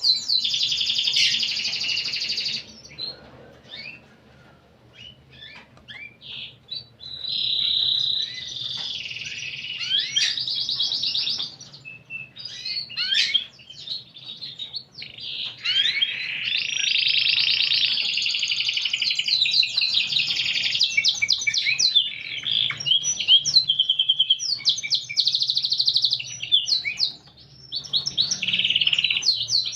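Domestic canary singing long, rapid trilled rolls. The song breaks twice into scattered single chirps, a few seconds in and again near the middle.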